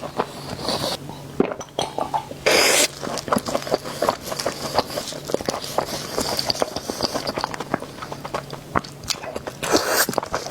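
Close-miked chewing, dense with small crackling clicks from mouth and food. A louder rushing burst comes about two and a half seconds in and another near the end.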